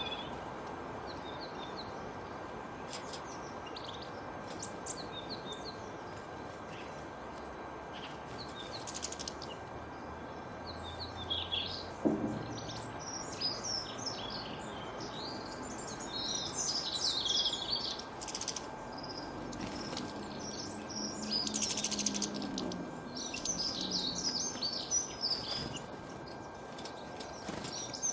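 Several songbirds chirping and trilling over a steady background hiss, busier in the second half. A short sharp knock stands out about twelve seconds in.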